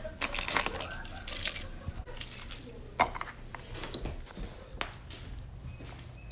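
Small hard objects clinking and rattling as they are handled, with a sharp click about three seconds in.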